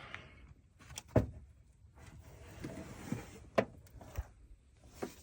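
A few scattered knocks and clicks, the loudest about a second in, with no engine cranking or running.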